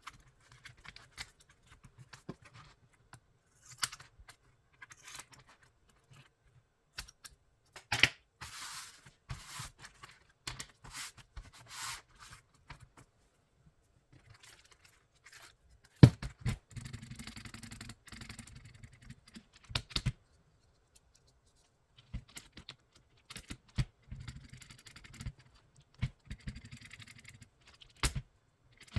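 Hands working on an aigo A108 mechanical keyboard during a tape mod: scattered clicks and knocks mixed with stretches of scraping and rustling, with one sharp knock about halfway through.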